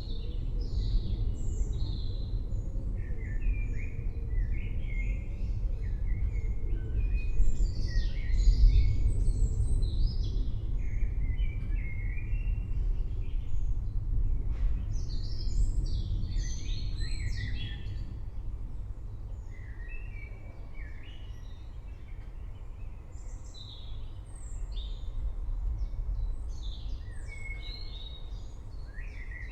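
Many songbirds chirping and singing over a deep, rolling rumble of distant thunder. The rumble swells about a third of the way in and eases off in the second half.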